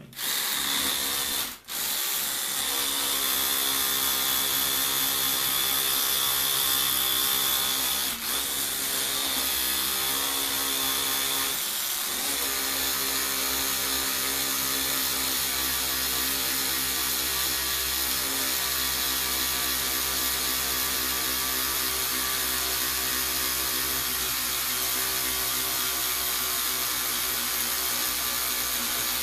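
Rewired electric toothbrush, running off 12 volts through a voltage regulator, with its small motor buzzing steadily. It cuts out briefly about a second and a half in, then runs on.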